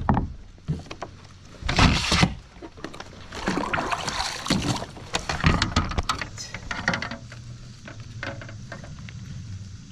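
Irregular knocks, clicks and rustling on a kayak as a freshly caught bass is handled, with louder scraping bursts about 2 seconds in and again around 4 seconds.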